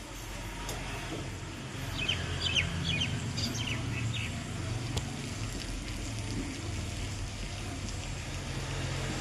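Birds chirping, a quick run of short high calls about two seconds in, over a steady low background hum.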